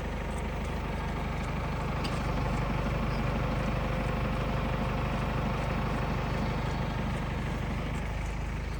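A vehicle engine running steadily, getting a little louder about two seconds in and easing off again near the end.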